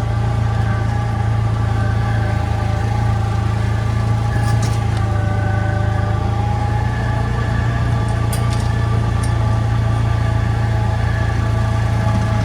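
An engine running steadily at an even pitch, with a few brief faint clicks over it.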